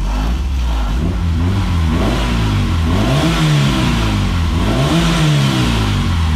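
Acura Integra's B20 VTEC engine revved while parked, the pitch rising and falling about three times, reaching around 3,600 rpm.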